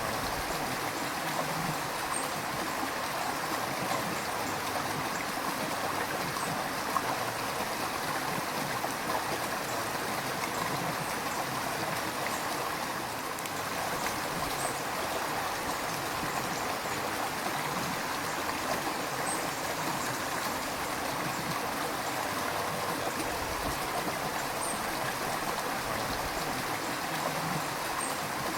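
A river flowing steadily: a continuous, even rush of water.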